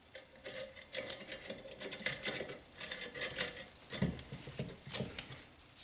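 Irregular metal clicks, taps and scraping of a valve spring compressor tool being worked against a small engine's valve spring and block, with a few heavier knocks about four seconds in.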